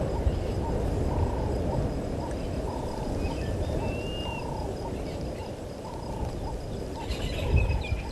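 Frogs at a waterhole calling in short, repeated notes, with a few birds whistling higher up over a steady low noise, and a quick flurry of chirps about seven seconds in.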